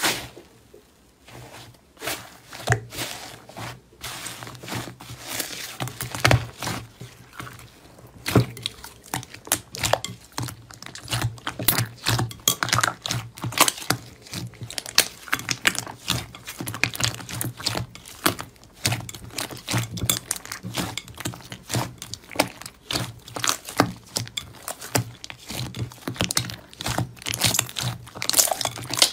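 Slime being squeezed and pressed by hand, giving a dense, irregular run of sharp clicks, pops and crackles.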